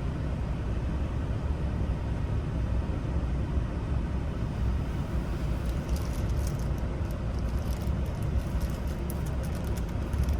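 Steady low rumble, with a run of small metallic clicks starting about halfway through as tumbler wafers are handled and fitted into an ignition lock cylinder.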